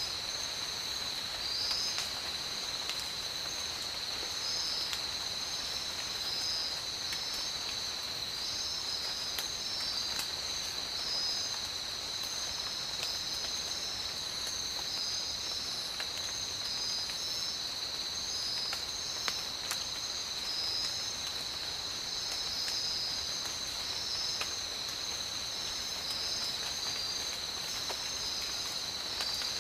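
Steady tropical rain falling, with scattered drop ticks, under a continuous high insect trill and a second insect chorus pulsing in an even rhythm just above it.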